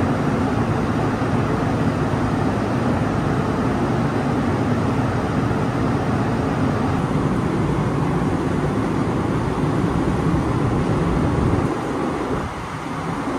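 Stationary TRA Fu-Hsing passenger train's on-board equipment running with a loud, steady mechanical noise; it drops off noticeably near the end.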